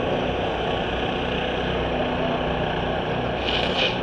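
A vehicle engine running steadily with a low hum, and a brief high hiss about three and a half seconds in.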